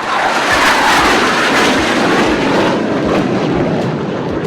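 Jet aircraft noise from the Surya Kiran team's BAE Hawk jet trainers flying past. It rises quickly, peaks about a second in, then slowly fades.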